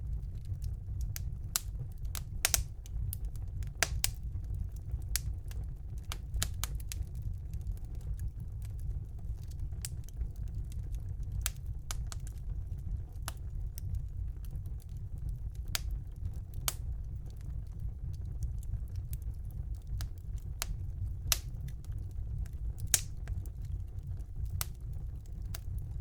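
Wood fire burning in a fireplace: sharp crackles and pops at irregular intervals over a steady low rumble of the flames, with a few louder pops.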